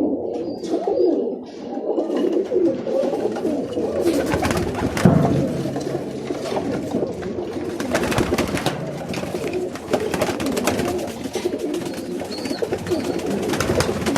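Many Birmingham roller pigeons cooing together without pause, with scattered sharp clicks and rustles from the birds moving about the loft.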